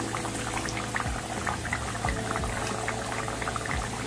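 Sliced sweet potato deep-frying in hot oil in a pan over medium heat: a steady sizzle with many small crackles and pops.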